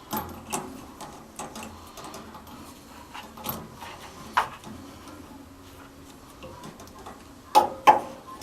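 Small metal parts of a gas water heater's pilot and burner assembly being handled and fitted back in place: scattered light clicks and taps, then two louder knocks close together near the end.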